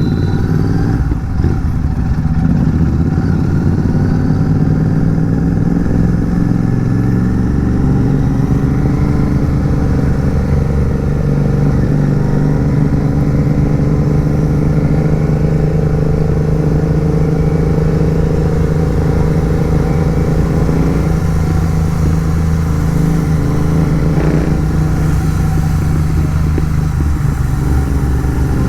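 Royal Enfield Continental GT 650's parallel-twin engine, fitted with an aftermarket AEW megaphone exhaust, on the move: it picks up speed over the first few seconds, then holds a steady cruise. A short knock sounds once near the end.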